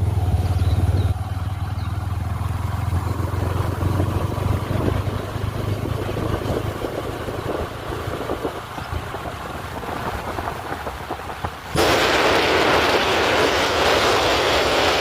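NS125 motorcycle on the move: engine and road noise, with a strong low rumble in the first second. About twelve seconds in, the sound changes abruptly to a loud, steady rushing noise.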